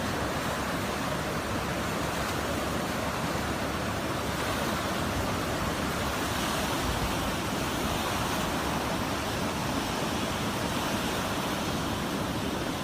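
Floodwater rushing in a torrent: a steady, unbroken rush of water with no let-up.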